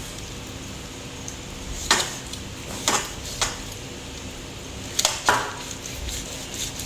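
Five sharp knocks and clinks of kitchen utensils, in two groups of two and three, over a steady background hiss.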